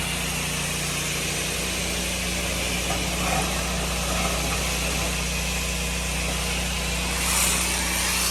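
Pressure washer running steadily: an even engine hum under a constant hiss of high-pressure spray through an X-Jet nozzle.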